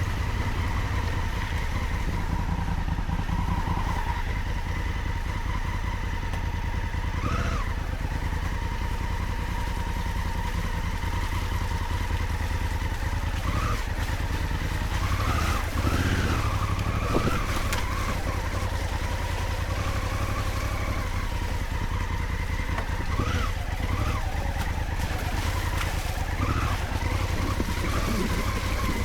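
Honda Africa Twin adventure motorcycle's parallel-twin engine running steadily over a deep low rumble, its pitch briefly rising several times as the throttle is opened on the off-road track.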